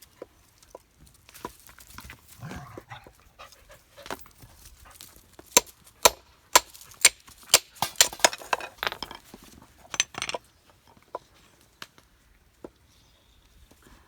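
A dog whimpering and panting, with a run of sharp clicks and knocks in the middle.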